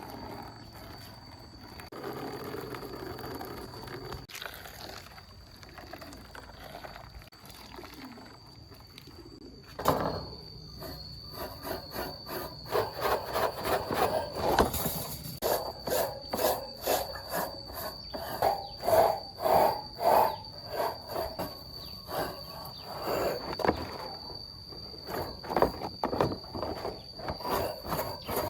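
Rapid back-and-forth rubbing strokes by hand, typical of rust removal or sanding on a part, starting about ten seconds in and running on in an even rhythm of roughly two strokes a second. Before the strokes there is only a faint hiss, and a faint steady high whine sounds throughout.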